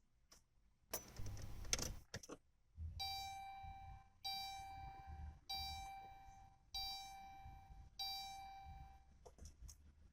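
Minivan warning chime sounding five times at an even pace, each a pitched tone of about a second, after a brief noisy rustle near the start.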